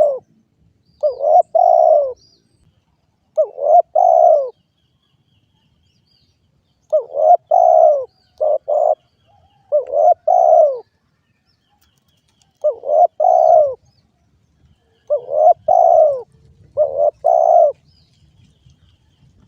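Derkuku dove cooing: short phrases of two or three mellow coos, repeated every couple of seconds. Faint high chirps of small birds sound behind.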